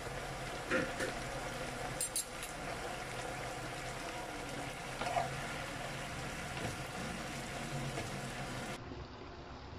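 Noodles, broccoli and meat sizzling in a nonstick wok over a gas flame, a steady, quiet frying noise with a few faint clicks of utensils. It drops away abruptly about a second before the end.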